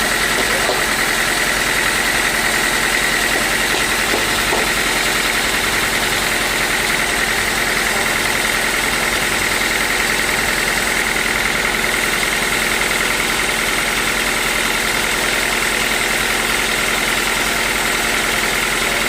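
Sawmill machinery running steadily: an even engine drone with a constant high whine and no pauses or changes in pitch.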